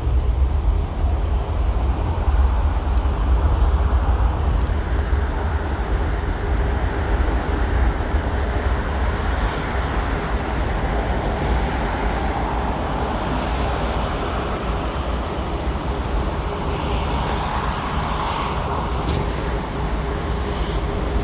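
Jet engine noise from an Airbus A340-600's Rolls-Royce Trent 500 engines: a steady heavy low rumble with a faint constant whine, and a rushing sound that swells and fades over the second half.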